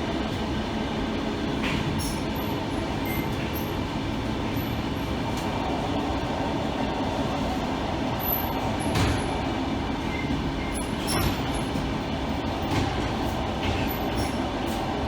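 Steady rumble of a moving vehicle, with scattered knocks and brief high squeaks.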